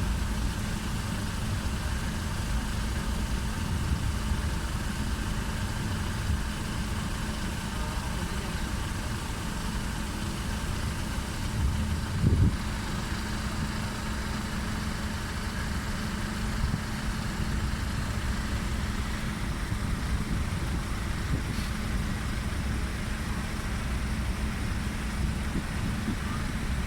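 Steady low engine drone with a constant hum, broken by one short louder thump about twelve seconds in.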